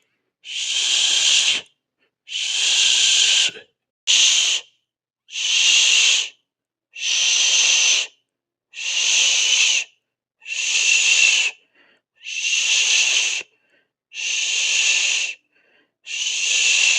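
A person hissing 'sss' through the teeth in repeated breath-long strokes, about one every two seconds, each lasting a second or so with a short silence between, with a slight whistle in the hiss.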